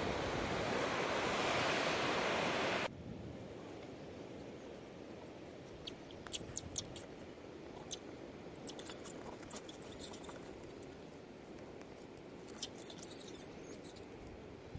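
Steady rush of ocean surf that cuts off abruptly about three seconds in. It gives way to a quieter background with scattered sharp clicks and brief high ticks.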